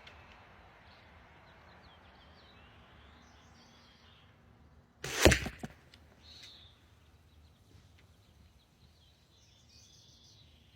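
A single shot from a bamboo-backed black walnut bow, about five seconds in: the string's release and the brief whoosh of a flu-flu arrow, whose big fletching makes the sound. Faint birdsong chirps in the background.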